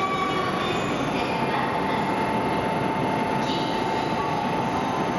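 E7 series Shinkansen train pulling slowly into the station platform: a steady rumble of the train running in, with a steady high whine joining about a second in.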